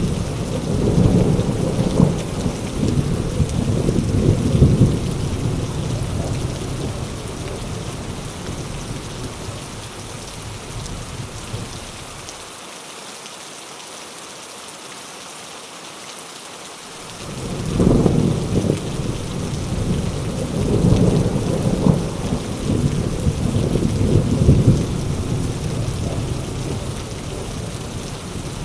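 Heavy rain falling steadily, with two long rolls of thunder. The first rumbles and fades out in the opening ten seconds. After a few seconds of rain alone, the second breaks in suddenly about eighteen seconds in and rolls on for several seconds.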